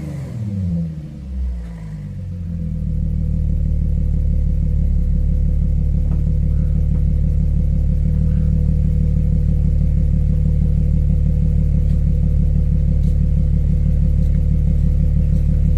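Audi A7 3.0 TFSI's supercharged V6 with an Akrapovic exhaust, engine speed falling back from a rev over the first two seconds or so, then idling steadily after a cold start.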